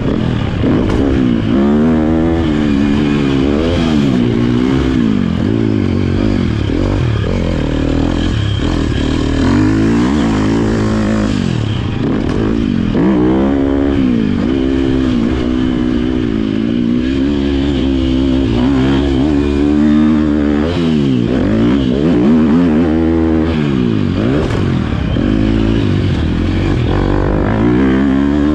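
Motocross bike engine being ridden hard on a dirt track, its note climbing under throttle and dropping off again over and over through the gears and corners, with some clattering from the bike.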